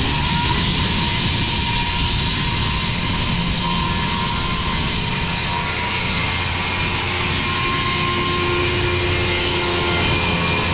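Milwaukee 7-1/4-inch corded circular saw with a 24-tooth carbide blade running steadily while cutting a long pass through 3/4-inch oak tongue-and-groove flooring, at full 3/4-inch blade depth.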